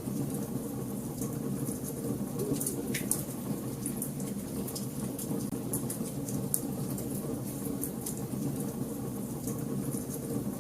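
Fire burning in a fireplace: a steady low rumble with frequent small crackles and snaps, and a few sharper pops about three seconds in.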